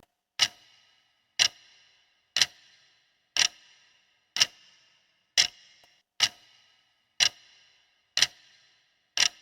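Clock-tick sound effect counting down the answer time: ten sharp ticks, about one a second, each with a short ring.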